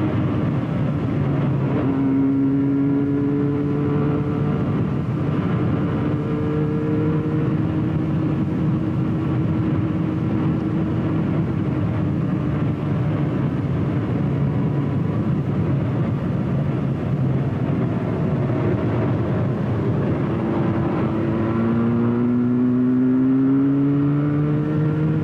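Motorcycle engine running while riding, with wind and road rush. Its pitch eases slowly down, then climbs again from about 20 seconds in as the bike accelerates.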